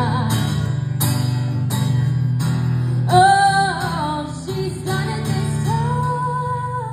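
Closing bars of a live song: strummed acoustic guitar under a wordless sung vocal that ends on a long held note.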